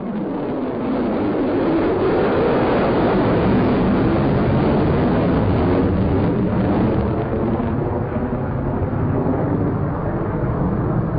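Jet aircraft engines running with a loud, steady roar that builds up in the first second and then holds.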